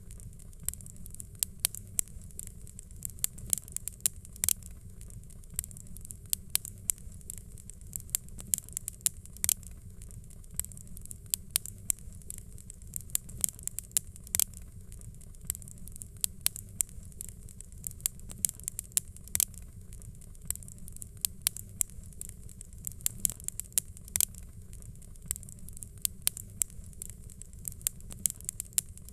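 Fireplace fire crackling: irregular sharp pops and snaps, several a second, over a low steady rumble.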